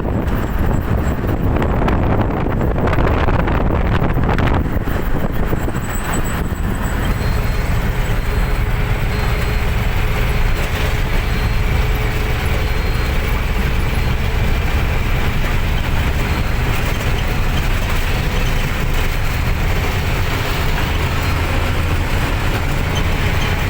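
A moving road vehicle's engine and road noise: a steady, loud low rumble, with more hiss joining from about seven seconds in.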